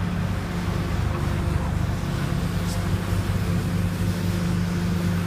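Garbage truck engine running nearby with a steady low hum.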